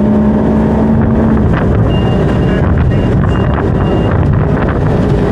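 Ski boat engine running under way, with heavy wind noise on the microphone; a steady engine tone drops out about a second and a half in. A row of short, high beeps sounds from about two to four seconds in.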